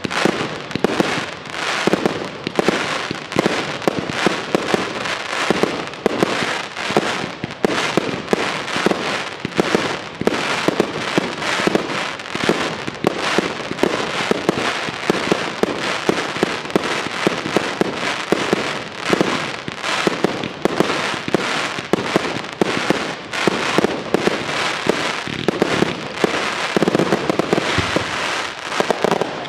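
Aerial fireworks display in a dense barrage: shell bursts and bangs following one another so fast they run together into a near-continuous rattle.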